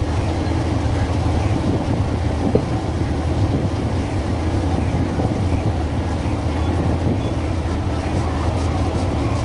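Fishing boat's engine running with a steady, even low drone.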